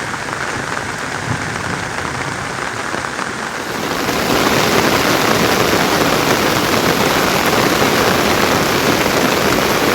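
Steady rain falling, a dense hiss that grows louder and heavier about four seconds in.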